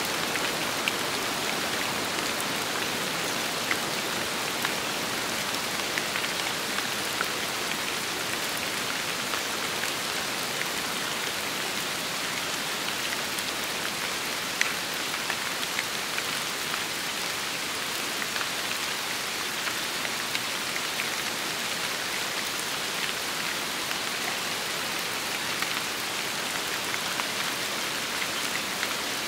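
Steady rain, a constant hiss dotted with the sharp ticks of single drops striking nearby, one a little louder about halfway through.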